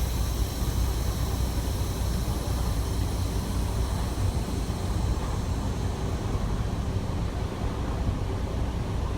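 Freightliner Cascadia semi truck's diesel engine running with a steady low rumble, heard from inside the cab as the truck is driven slowly.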